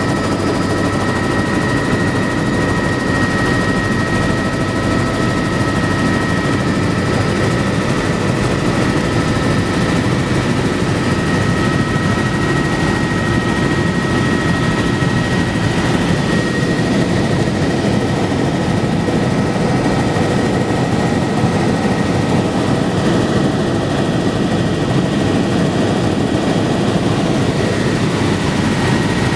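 Helicopter running steadily: a dense low rotor and engine rumble with a few thin, steady high whining tones above it.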